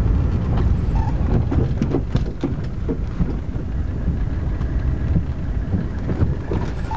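Mercedes-Benz 300D's OM617 five-cylinder turbodiesel running, a steady low rumble.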